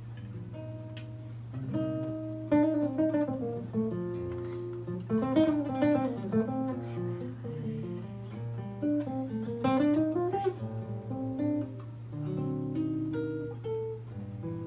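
Solo acoustic guitar playing an instrumental introduction: single picked notes and chords, with quick runs that climb and fall.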